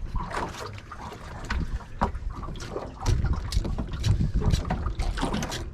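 Wind buffeting the microphone aboard a small fishing boat: a steady low rumble with irregular sharp knocks and clicks scattered through it, louder from about three seconds in.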